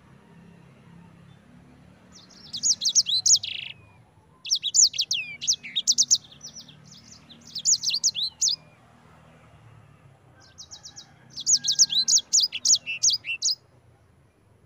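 Sanger songbird singing three bursts of fast, high rolling trills, with short pauses between them.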